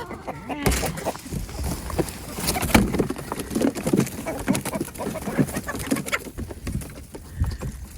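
Chickens clucking and cooing in short calls, mixed with many small knocks and rustles.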